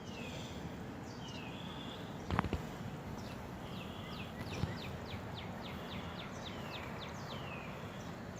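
Birds chirping: repeated quick falling chirps and short whistled phrases over a steady outdoor background noise, with a couple of light knocks about two and a half seconds in.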